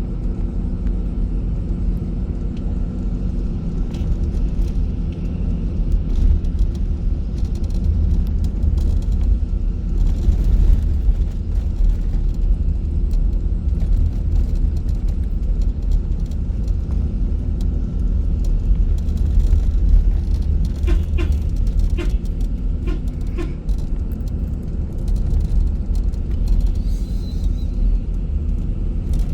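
A bus on the move: a steady low engine and road rumble, with a few light clicks or rattles about two thirds of the way through.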